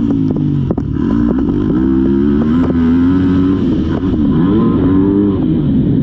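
Motocross dirt bike engine revving up and down as it is ridden hard, the pitch climbing and then dropping sharply just before a second in and again around four seconds, with scattered sharp clicks and knocks.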